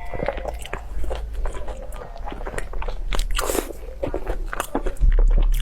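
A person biting and chewing crunchy food close to the microphone, with many irregular sharp crunches and crackles.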